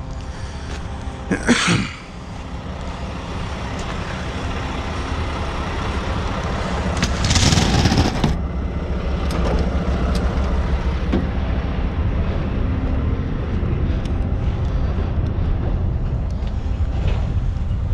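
Heavy truck's diesel engine running steadily and growing a little louder over the first several seconds, with a short sharp burst about a second and a half in and a louder rushing burst, like air being let out, lasting about a second around seven seconds in.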